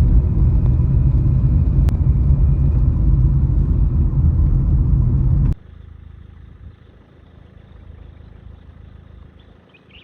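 Low, steady rumble of a moving car's road and engine noise. It cuts off abruptly about five and a half seconds in, leaving a much quieter background.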